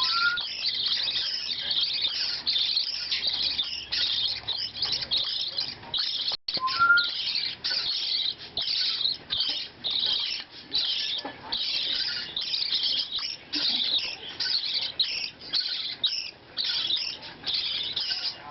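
Handfed baby parrotlet and budgie chicks begging for food: a continuous stream of rapid, high-pitched chirps, several a second.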